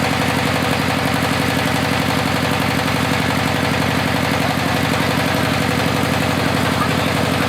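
Engine of a GY-200-1A engineering drilling rig running at a steady speed, with an even, rapid pulse.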